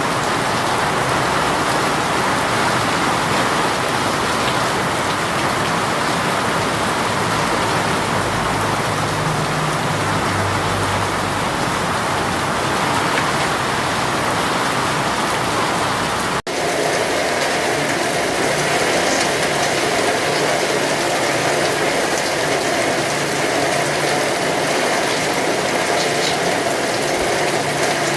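Steady heavy rain. About sixteen seconds in the sound cuts out for an instant and gives way to a different rain sound with a rattling, mechanical-sounding texture.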